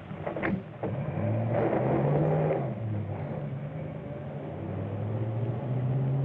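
Car engine running on an old film soundtrack, its note rising and falling as it speeds up and slows, with a couple of sharp knocks about half a second in.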